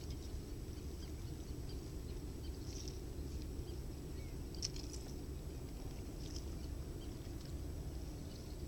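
Kayak on open lake water: a steady low rumble of water and air, with faint scattered high drips and ticks and one sharper click about halfway through.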